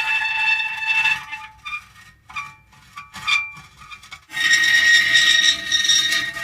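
Metal creaking: a drawn-out creak with a steady squealing pitch, breaking up about a second in into short scattered creaks with gaps between them, then a long squealing creak again from about four seconds in.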